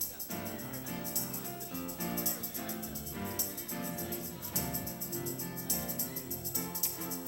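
Slow gospel music: sustained chords shifting every second or so, with jingling percussion keeping a beat.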